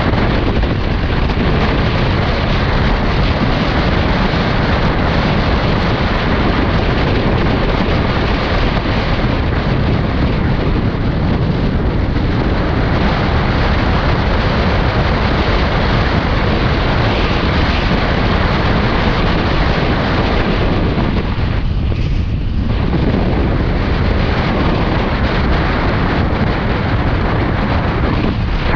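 Wind buffeting the microphone of a camera on a moving motorcycle, a loud, steady rumble that covers the engine.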